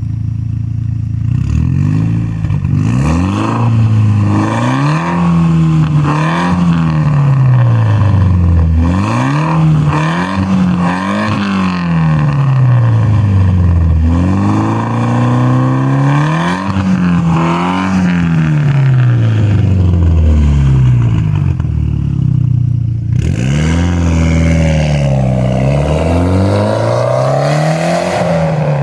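2014 Mitsubishi Lancer Evolution X GSR's turbocharged 2.0-litre four-cylinder, breathing through a full titanium exhaust with test pipe, revved again and again, the pitch climbing and dropping back each time. About three-quarters of the way through, the sound turns brighter and rougher.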